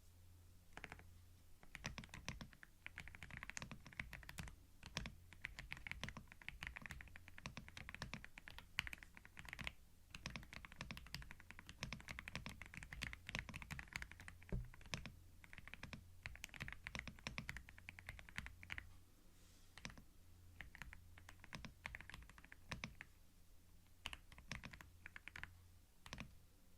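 Typing on a computer keyboard: quick runs of key clicks broken by short pauses, over a faint steady low hum.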